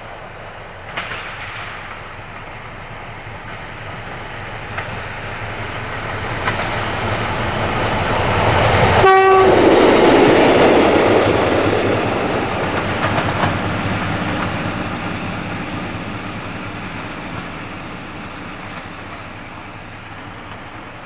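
A train approaches, passes close by and recedes, its noise swelling to a peak about halfway through and then fading. A brief horn note sounds as it passes.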